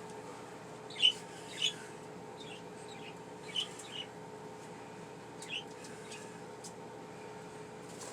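Pet budgerigars giving short, scattered chirps, the two loudest about a second in, over a steady low hum.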